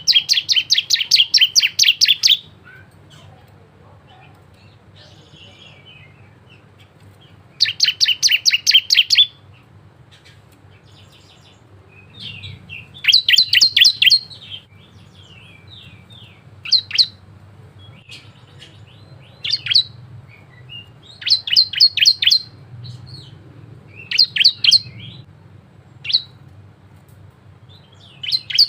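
A ciblek (prinia) singing in bursts of rapid, fast-repeated sharp chip notes, each burst lasting one to two seconds, with single short notes between them.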